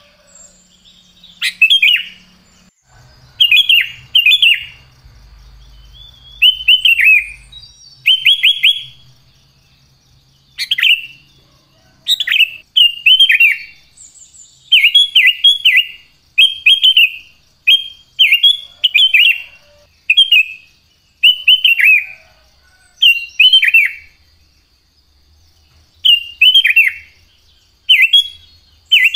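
Sooty-headed bulbul (kutilang) singing loudly and persistently: short bright phrases of quick chirps that fall in pitch, repeated about once a second with brief gaps.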